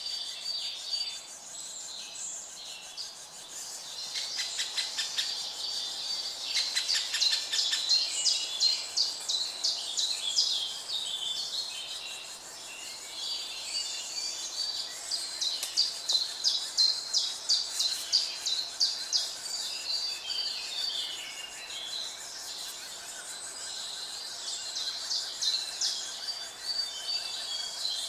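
Birds chirping and calling: many short, high, thin notes and quick rapid runs of them, coming thickest in two stretches in the middle, over a faint steady background hiss.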